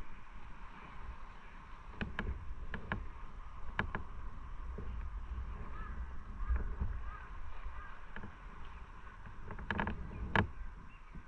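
Motorcycle riding, a steady low rumble of engine and wind on the microphone. Several sharp clicks or knocks come through, a few about two to four seconds in and a cluster near the end.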